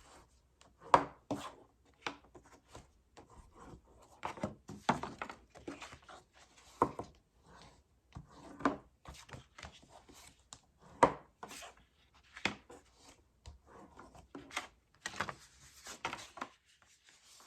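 Cardstock pockets being folded along their score lines and pressed flat on a tabletop: irregular sharp taps and paper-handling noises.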